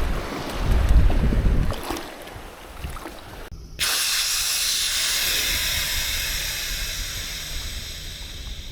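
Wind rumbling on the microphone, then after a sudden cut a loud, steady hiss that slowly fades.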